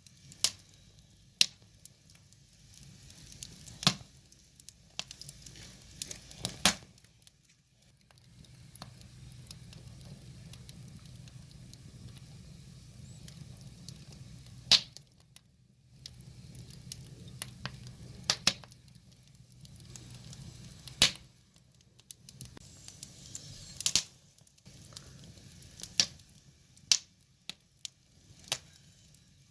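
Wood fire burning, crackling with irregular sharp pops of the logs, the loudest every few seconds, over a low steady rush of flame.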